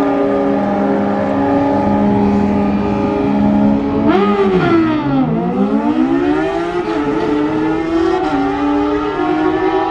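Car engine held at high revs. About four seconds in the revs drop sharply, then climb back up and hold again.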